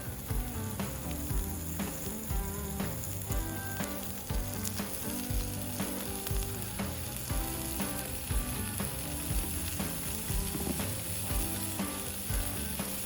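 Meat sizzling on a hot iron plate over a campfire, a steady hiss with frequent spattering crackles.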